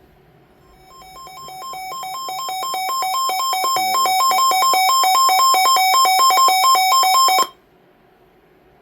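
Weather alert radio's alarm sounding for a severe thunderstorm warning: rapid beeping that alternates between two pitches, growing louder over the first few seconds, then cutting off suddenly about seven seconds in.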